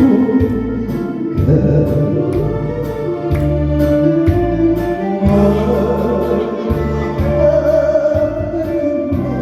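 A singer performing a slow Korean song over accompaniment with sustained bass notes and a steady drum beat.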